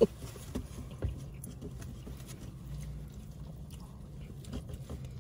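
People chewing mouthfuls of takeout fried rice and noodles close to the microphone, with scattered small clicks over a low steady hum in a car cabin.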